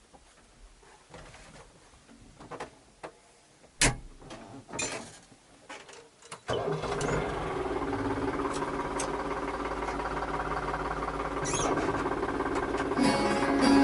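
Scattered clicks and knocks, then a tractor engine starts abruptly about halfway through and runs steadily.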